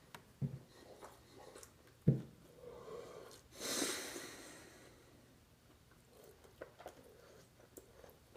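A man chewing a mouthful of hot dog, with short wet mouth clicks, and a heavy breath out through the nose about three and a half seconds in.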